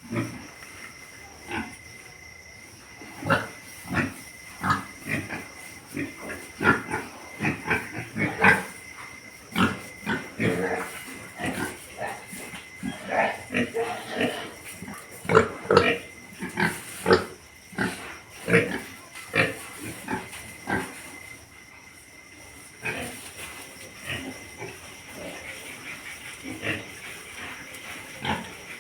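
Pigs making many short calls one after another, busiest in the middle and thinning out for a moment about three quarters of the way through.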